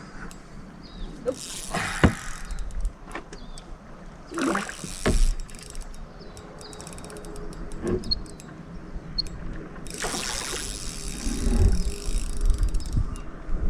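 Water splashing several times as a hooked bass thrashes at the surface near the boat, with light clicking from the fishing reel in between.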